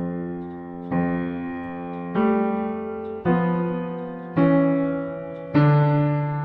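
Solo piano music: slow notes or chords struck about once a second, each left to ring and fade before the next.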